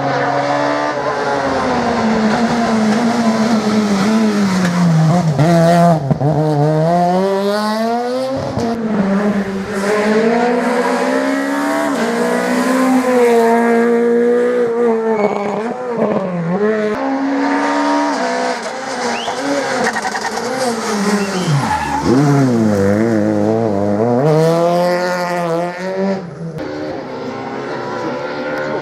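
Rally car engines revving hard, the pitch climbing and dropping with each gear change and lift-off, with some tyre squeal. The sound breaks off and restarts several times as one car gives way to another.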